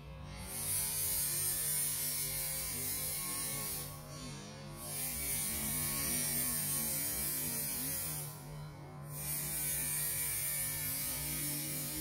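A steady low hum under a loud high hiss, the hiss cutting out briefly about every four seconds.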